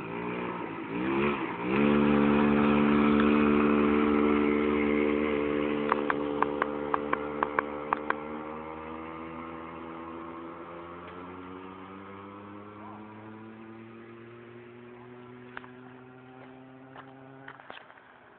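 49cc motorcycle engine revving twice, then holding a steady high rev that slowly fades and drops a little in pitch, until it cuts off near the end. A quick string of sharp clicks comes about six to eight seconds in.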